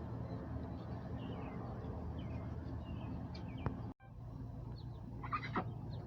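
Poultry in a coop: faint, short, high chirps over a steady low hum, then a louder bird call about five seconds in.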